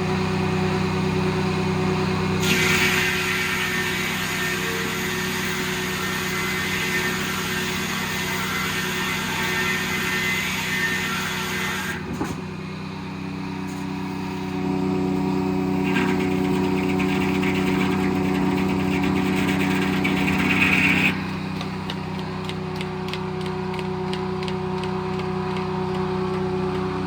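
Circle sawmill driven by a Detroit diesel engine, running steadily under the blade. The saw cuts through the log in two long passes, the first lasting about ten seconds and the second about six, with the engine running on alone between and after them.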